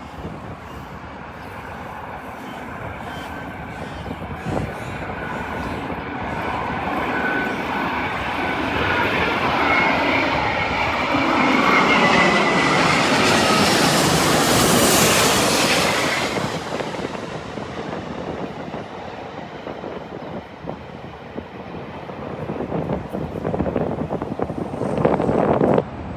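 Airbus A350 jet airliner on landing approach, its Rolls-Royce Trent XWB engines whining as the jet noise builds. It peaks as the aircraft passes, about twelve to sixteen seconds in, then fades away. A rougher burst of noise comes near the end.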